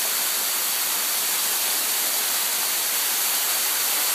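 Waterfall of about a 160-foot drop heard from right underneath: falling water and spray making a steady rushing hiss that does not change.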